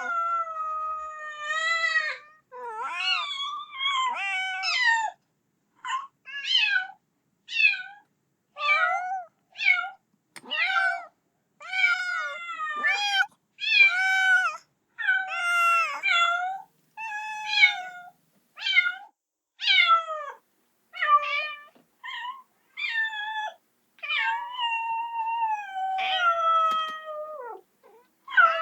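Kitten meowing over and over, calling for its mother: a rapid series of about twenty high-pitched cries, most short and sharp, a few drawn out and falling in pitch.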